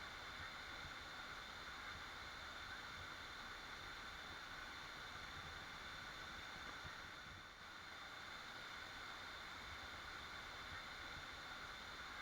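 Waterfall: a steady, even rush of falling water, dipping slightly for a moment about seven and a half seconds in.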